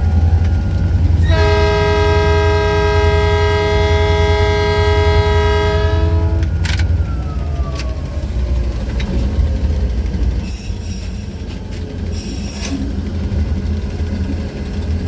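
EMD G16 diesel locomotive running with a deep, steady engine rumble, sounding one long horn blast of about five seconds starting about a second in. After the horn stops, a faint whine falls slowly in pitch.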